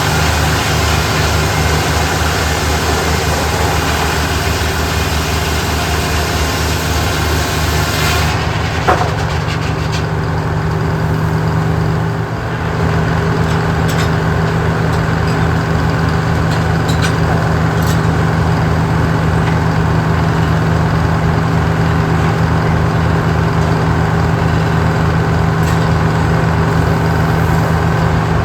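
An engine running steadily at a constant speed. About eight seconds in, the higher hiss drops away abruptly, and a single sharp knock follows shortly after.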